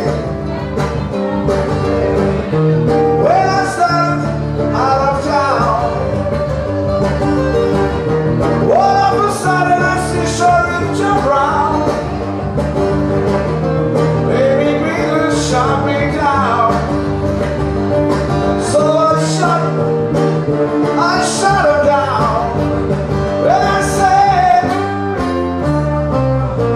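Live band playing a country-blues song: plucked guitars over a steady bass, with a lead line that slides and bends in pitch every few seconds.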